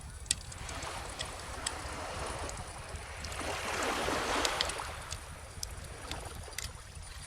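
Bonfire crackling with scattered sharp pops over the wash of a calm ocean wave, which swells to its loudest about halfway through and then recedes.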